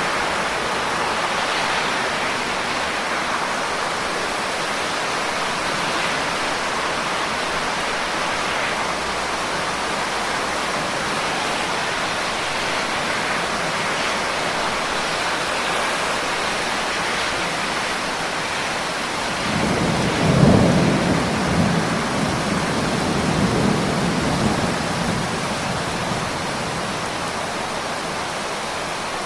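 Steady, even rain hiss. About two-thirds of the way through, a roll of thunder rumbles in low, peaks within a second and fades out over several seconds.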